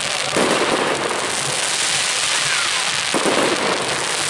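Fireworks going off: a continuous crackle and fizz from many fireworks at once, with two louder bursts, one about half a second in and another just after three seconds.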